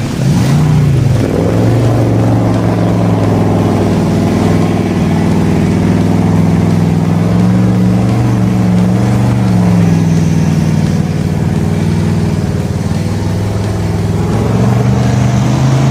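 A large engine running hard and steadily, its pitch wavering slightly up and down, with a small dip about ten seconds in.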